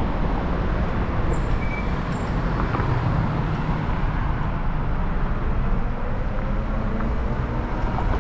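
Wind rushing over an action camera's microphone while riding an e-bike through city traffic, a steady rumbling noise, with a brief high squeal about a second and a half in.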